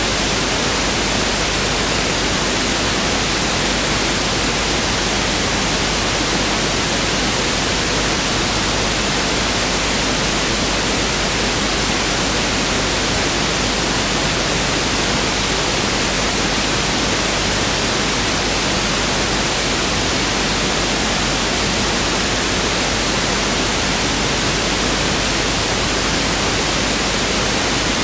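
Pink noise test signal: a steady, even hiss spread across the whole frequency range, with equal energy per octave (1/f), unchanging throughout.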